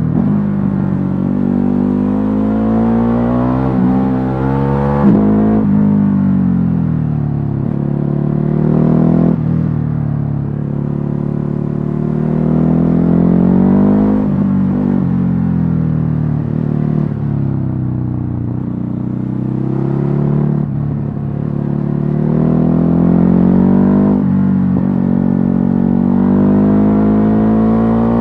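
Stock Ducati Hypermotard 950's 937 cc L-twin engine pulling hard through the gears. The pitch climbs and drops sharply at each upshift, and in places falls away more slowly as the throttle is closed, several times over.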